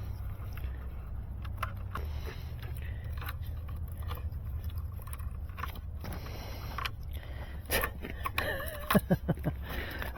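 A steady low hum with scattered light clicks and handling noises, then a quick run of knocks near the end.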